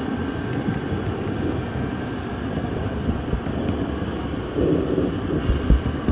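Steady rumbling noise of a moving train, with a few low thumps near the end.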